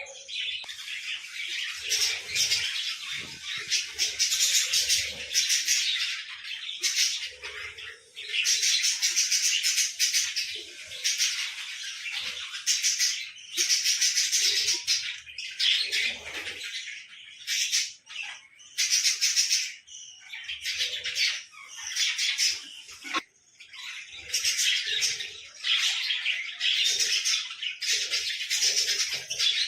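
Small pet birds chattering and chirping, high-pitched and rapid, in bouts of a few seconds broken by short pauses.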